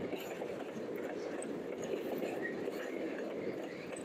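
Loaded freight train's wagons rolling past close by: a steady rumble and rattle of steel wheels on the rails.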